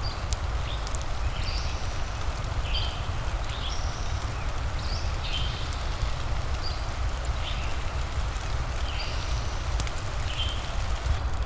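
Steady rain with a low rumble, a few faint crackles from a fireplace, and short high chirps repeating about once a second over it.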